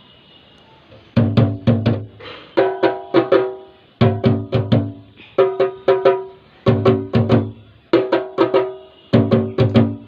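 Percussive music: a pitched struck instrument played in a fast repeating rhythmic pattern, starting about a second in.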